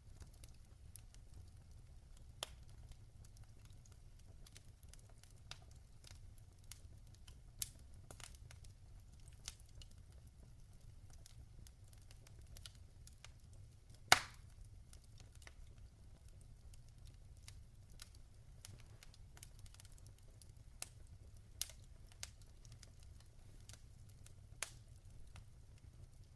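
Logs burning in a fireplace, crackling with scattered sharp pops over a low steady rumble. One loud pop comes about halfway through.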